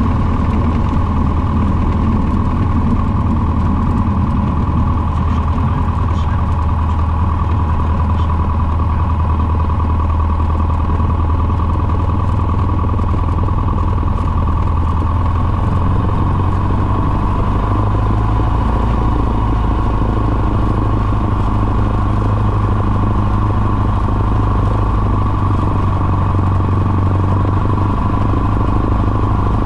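Engine and propeller of a small private airplane running steadily, heard from inside the cabin as a loud, unbroken low drone with a steady higher tone above it.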